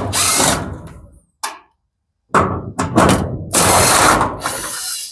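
Mechanical clattering and thunks from garage door hardware being worked on to take out a roller. A burst in the first second, a single knock, then a longer stretch of rattling from about two seconds in.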